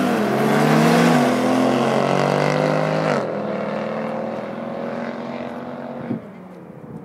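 Car engine under hard acceleration, its pitch climbing and dropping back at quick upshifts about one and two seconds in and again near three seconds. It then runs on steadier and quieter, falling away near the end.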